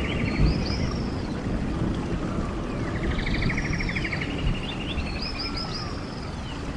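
A stream's running water rushes steadily while a songbird repeats one song phrase: a quick buzzy trill followed by a few high down-slurred whistles. The phrase comes twice, about three seconds apart.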